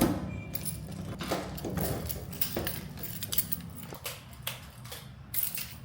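Scattered light clicks and clinks of small objects being handled, over a low steady hum, growing fainter toward the end.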